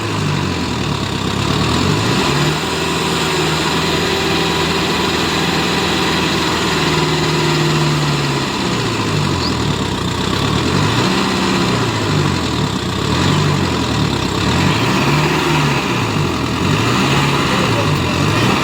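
Kubota MU5502 tractor's diesel engine working under load as the stuck tractor tries to pull out of deep mud. Its pitch is held high for a few seconds early on, then rises and falls over and over, about once every second and a half, as the throttle is worked up and down.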